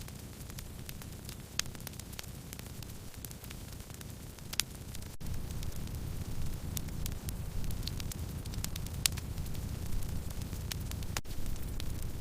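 Wood fire crackling: scattered sharp pops and snaps, a few louder ones, over a steady low rumble of the burning firewood.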